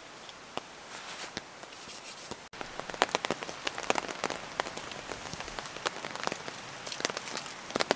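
Rain falling, a steady hiss with many sharp individual drop hits. The sound breaks off abruptly about two and a half seconds in, then the drops come thicker and louder.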